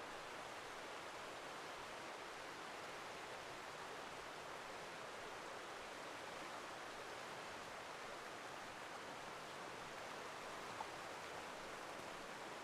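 Steady rushing of a river cascading over small waterfalls. A single brief click near the end.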